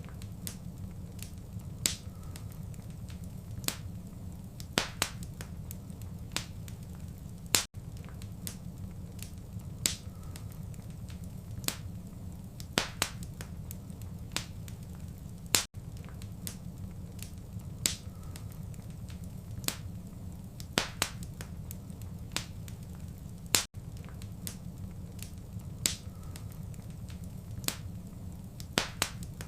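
Fireplace fire crackling: sharp, irregular pops and snaps over a steady low rumble. The sound cuts out very briefly about every eight seconds.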